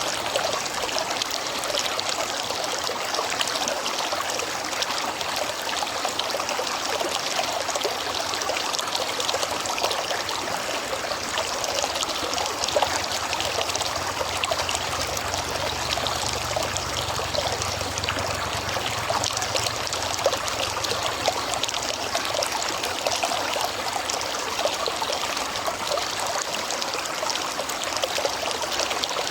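River water flowing steadily, a dense even rush of running water with fine trickling and splashing.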